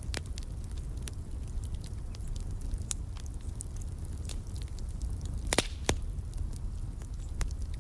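Wood fire in a fireplace crackling, with many small sharp pops over a low steady rumble of flame and one louder pop about five and a half seconds in.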